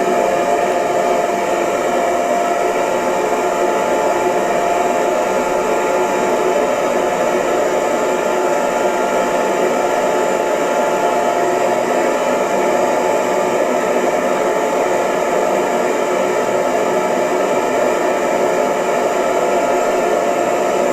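Hair dryer running steadily: an even rushing blow of air with a faint steady whine from its motor and fan.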